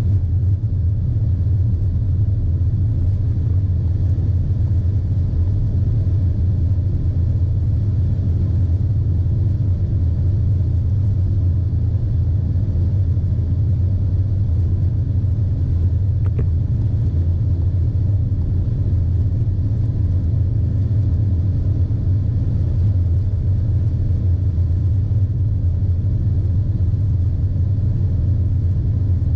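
Volkswagen Polo VI 1.0 TSI's turbocharged three-cylinder engine running flat out at top speed, about 200 km/h in fifth gear at close to 5,000 rpm, heard from inside the cabin as a steady, unchanging low drone.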